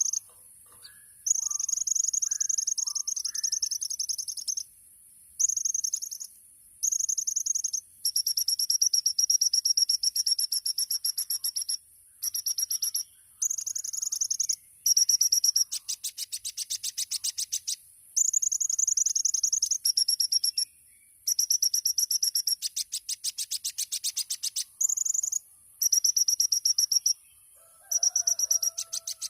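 Kolibri ninja (Van Hasselt's sunbird) singing: very high, thin, fast trilling phrases of one to several seconds, separated by short pauses, some breaking into rapid runs of pulses.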